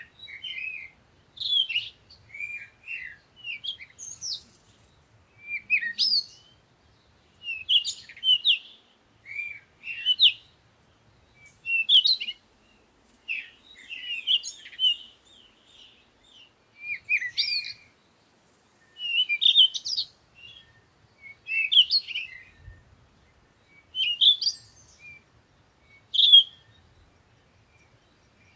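Birds chirping and singing in short, varied phrases, one every second or two, with brief pauses between them.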